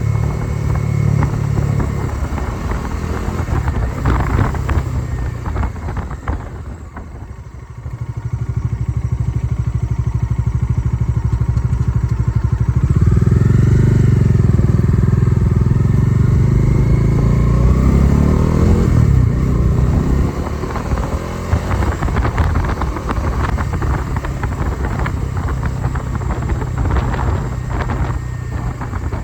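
Motorcycle engine running on the road. Its note dips briefly about seven seconds in, then runs louder from about thirteen seconds in, rising and falling in pitch before settling back.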